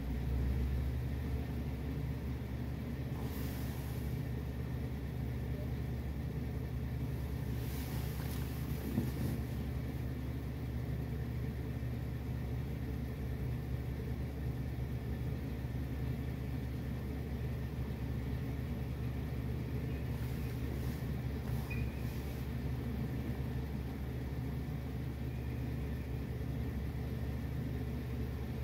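Car engine idling while stopped, heard from inside the cabin as a steady low hum. A few brief hisses of passing traffic come about 3 s, 8 s and 21 s in.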